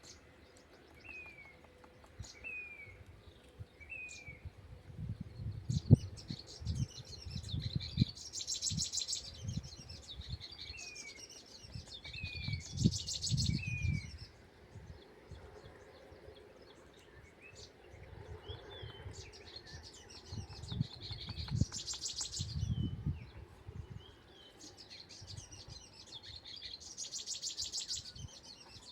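Small bird calling with short, downward-sliding chirps, often three in a row, mixed with bursts of fast, high ticking. Low rumbling thuds come and go, loudest from about five seconds in and again past twenty seconds.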